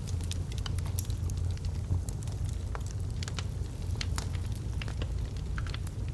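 Logs burning in a fireplace: irregular sharp crackles and pops, several a second, over a steady low rumble of the fire.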